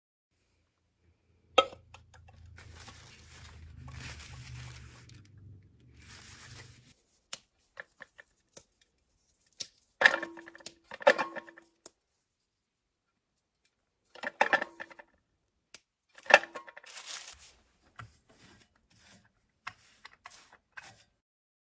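Household objects being handled at close range: sharp clicks and knocks, a few with a short ringing note, among rustling. A low hum runs through the first few seconds.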